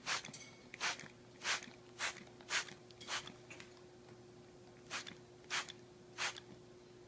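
Water being misted from a hand spray bottle: about ten short hissing squirts, roughly two a second, with a pause of about a second past the middle.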